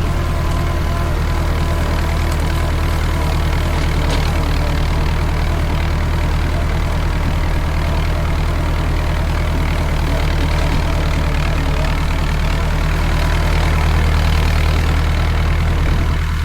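Tractor engine running steadily while driving a hay tedder, with the level swelling a little near the end.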